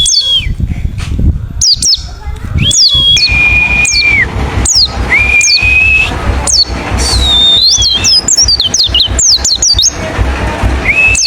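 White-eye (pleci) calling: many quick whistled notes sweeping down from high to lower pitch, with a few longer level whistles held for about a second, over a steady low rushing background.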